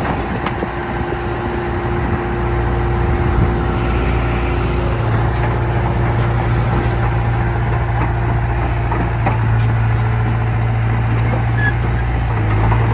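Diesel engine of a Komatsu D31P bulldozer running steadily with a low drone, growing slightly louder about two seconds in.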